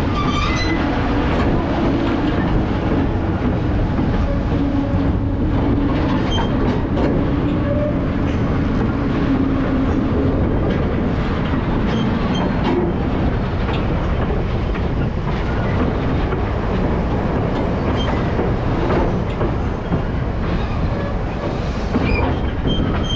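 Passenger train rolling along the track, heard from a camera held out beside the car: a steady rumble of wheels on rail with scattered clicks, and a low steady hum through the first half.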